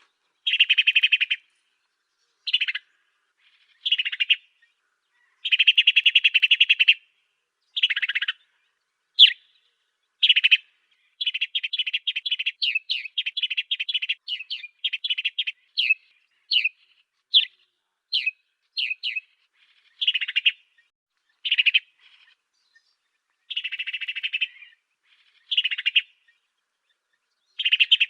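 African sparrow (burung gereja afrika) singing: short bursts of harsh, buzzy chirping, then a long run of quick, sharp chirps in the middle, then buzzy bursts again.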